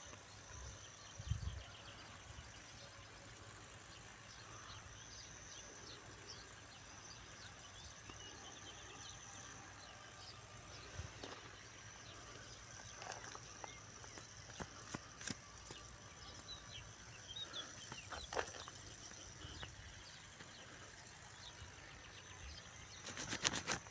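Faint outdoor ambience: a steady hiss with scattered faint chirps and a few soft clicks, and a quick run of clicks at the very end.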